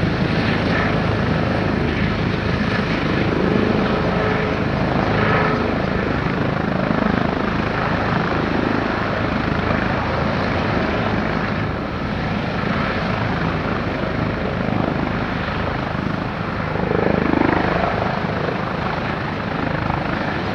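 Airbus H145 (BK117 D2) helicopter running steadily on its twin turboshaft engines and rotors, waiting at the holding point before takeoff clearance.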